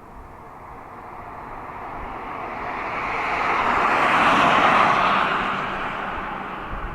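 Boeing 767-300 freighter's twin turbofan engines passing by: a rushing jet noise that swells to a peak about four and a half seconds in, then fades.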